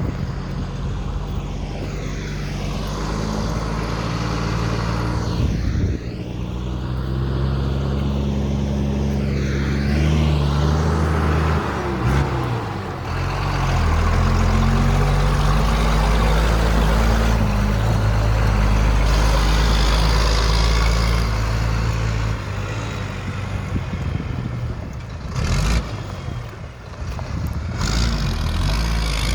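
Caterpillar 3116 inline-six turbo diesel in a GMC TopKick running through a straight pipe with no muffler, loud, its pitch and level rising and falling as the throttle is raised and let back a few times.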